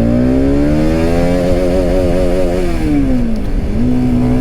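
Bajaj Pulsar RS200's single-cylinder engine revving out in first gear: the pitch climbs, wavers at the top as the engine holds maximum revs, drops about three seconds in as the throttle closes, then steadies. The bike tops out at only about 48 km/h in first gear.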